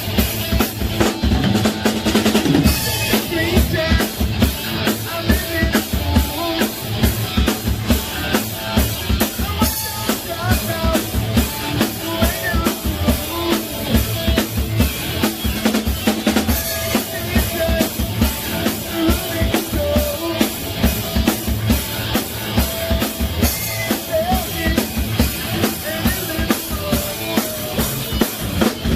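Heavy metal band playing live in a rehearsal studio, the drum kit driving a steady fast beat on bass drum and snare under the other instruments.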